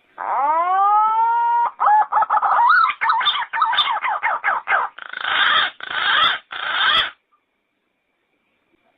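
Yellow-footed green pigeon calling: one long whistled note that rises and then holds, followed by a quick run of warbling notes and three rougher, harsher notes, stopping about seven seconds in.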